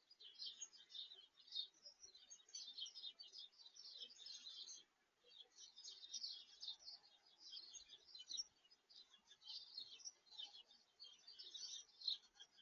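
Blue tits calling: quick runs of short, high chirps, faint, with a brief lull about five seconds in.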